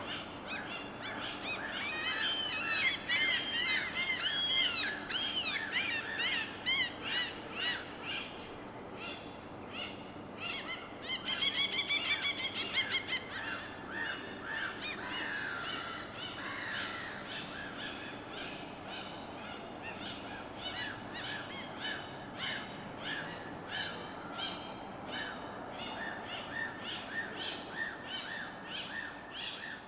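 A mix of birds calling and chirping, busiest a couple of seconds in and with a fast trill about eleven seconds in, over a steady background wash of water and harbor ambience.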